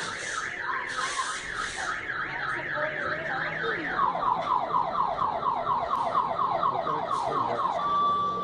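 Electronic car alarm cycling through its tones: quick rising whoops about three a second, switching about four seconds in to faster falling sweeps, then steady beeps near the end. Two bursts of hiss sound in the first two seconds.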